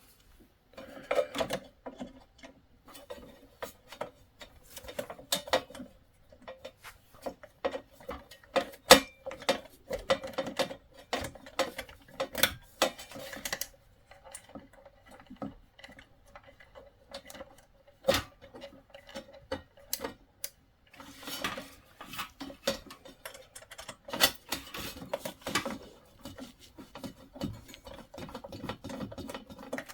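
A screwdriver undoing a screw on a diesel heater's control board, with irregular clicks and small metallic ticks of the tool and screw.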